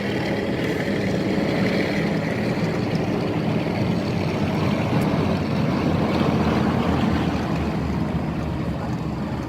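Piston-engined propeller aircraft flying in formation, a steady engine drone whose pitch drifts slowly as they pass.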